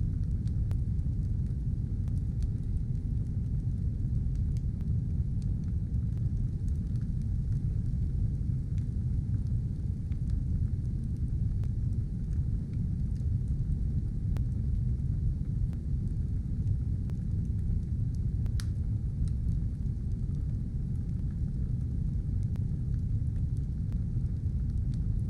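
Fire burning in a stove: a steady low rumble with sparse faint crackles and one sharper pop about eighteen seconds in.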